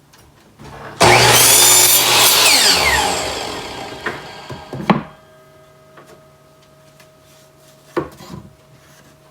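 Electric chop saw started about a second in and cutting through a wooden board, its motor tone falling as the blade spins down over the next few seconds. A sharp knock comes near five seconds and a click about eight seconds in.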